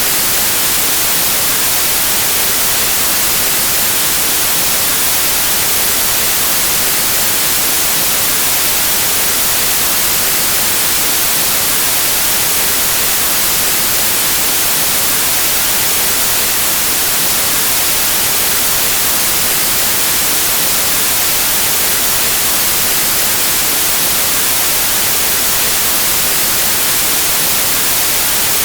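Steady, even white noise: a constant hiss of static, strongest in the highs, unchanging throughout.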